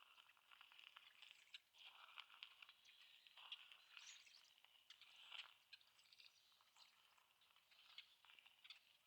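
Faint crunching footsteps at a slow walk, each step a small cluster of gritty clicks about every second or so.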